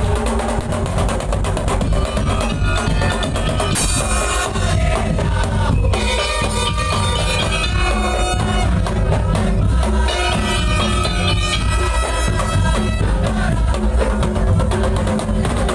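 Madurese daul ensemble playing loud music: drums and a heavy bass drum under a sustained melodic line.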